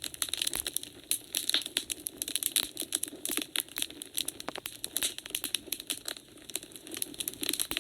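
Wood fire burning in a fireplace, crackling and popping with dense, irregular sharp snaps.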